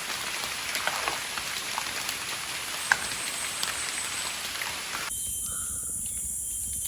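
Steady rain falling, with individual drops pattering close by. About five seconds in it cuts off abruptly, leaving a quieter steady high-pitched hiss with two short calls.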